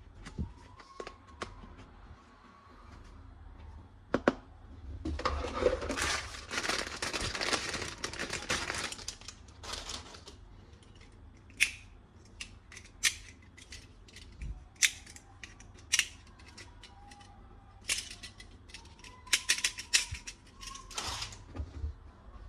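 Hard plastic clicks and rattling from toy guns being handled. There is a dense stretch of rustling and rattling for about four seconds early on, then a run of separate sharp clicks about a second apart.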